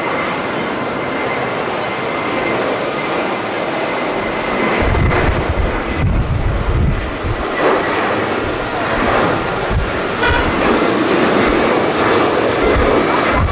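Jet airliner engine noise, a steady loud rush, with gusty wind buffeting the microphone from about five seconds in.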